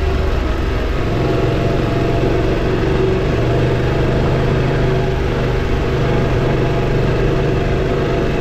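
Motorcycle engine running steadily under way, its pitch stepping up about a second in and holding there until it drops back right at the end.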